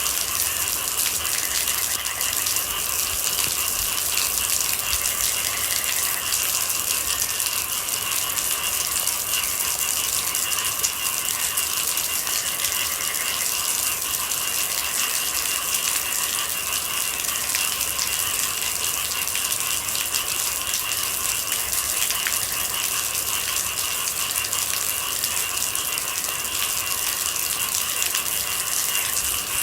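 Steady rain falling, a dense, even patter of many small drops with no let-up.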